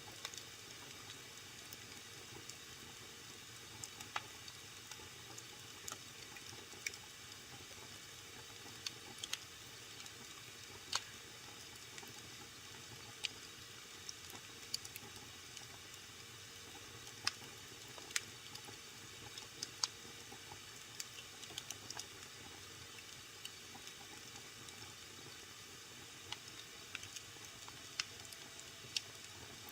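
Wood fire burning in a fireplace, crackling: a steady soft hiss with irregular sharp pops and snaps, a few of them louder.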